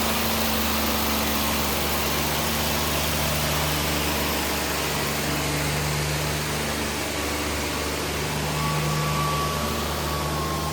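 Tractor diesel engine running steadily, with an even hiss over it.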